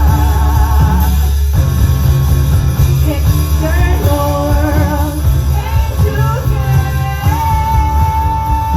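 Rock band playing live: heavy bass under a wavering, gliding melody, with a long held high note setting in near the end.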